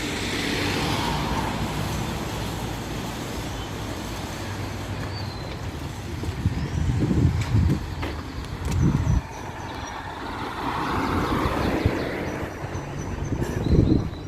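Street traffic with cars passing, swelling up and fading away near the start and again late on. Several short low rumbles hit the microphone from about six seconds in, the last and loudest near the end.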